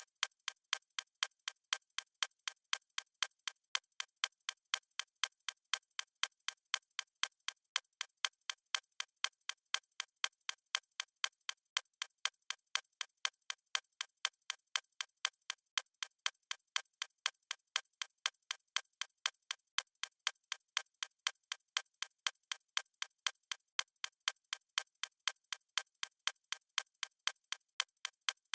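Stopwatch ticking sound effect: a fast, even train of sharp, thin ticks with no bass, keeping a steady pace.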